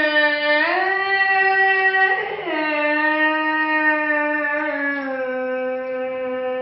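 A voice singing long, drawn-out notes, sliding between held pitches: a slow, unaccompanied vocal line.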